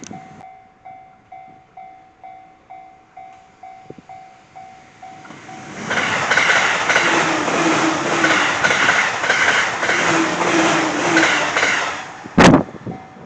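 Japanese level-crossing warning bell dinging about twice a second, then a Joban Line train passing at high speed for about six seconds with a rhythmic clatter of wheels that drowns the bell out. A loud thump comes just after the train has passed.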